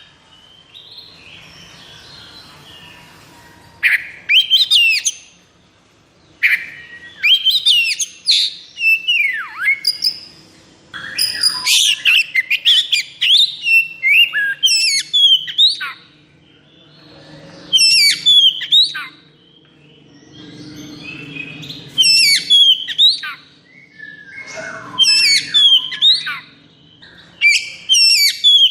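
Oriental magpie-robin (kacer) singing in loud bursts of rapid whistles and sharp down-slurred notes, each phrase lasting a second or two, with short pauses between them.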